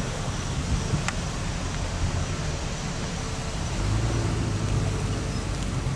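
Street traffic: steady road noise with a car engine's low hum, which swells for a second or two about four seconds in as a car goes by.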